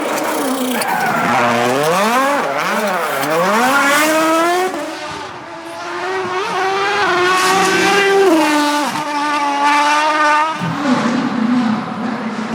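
Rally car engine revving hard at full attack, its pitch dropping and climbing several times as the driver lifts and gets back on the throttle. It then holds at high revs for several seconds before falling off sharply near the end.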